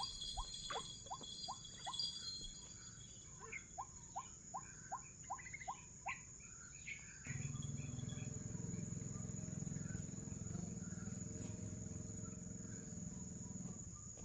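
White-breasted waterhen calls: short notes repeated about three times a second, in two bouts over the first six seconds, over a steady high insect drone. About seven seconds in, a low steady rumble starts suddenly and runs on.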